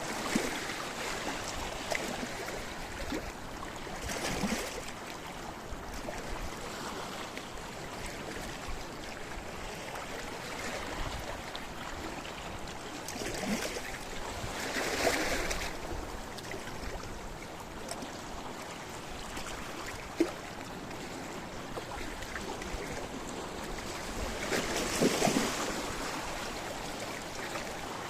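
Sea waves washing against a rocky shore, a steady wash of water with three louder surges, about 4, 15 and 25 seconds in. A single sharp click comes about 20 seconds in.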